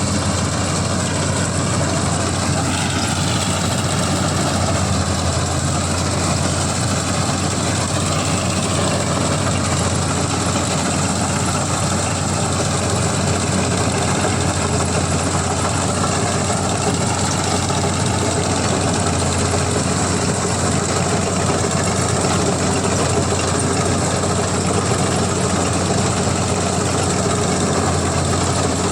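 Diesel engine of a CLAAS combine harvester running steadily, with a constant low hum.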